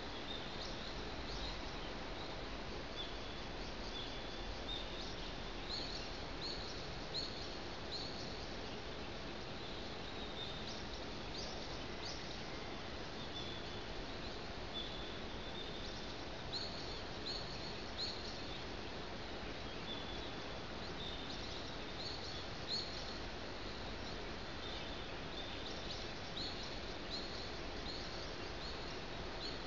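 Small birds chirping at daybreak: short, high chirps repeated in loose runs over a steady background hiss.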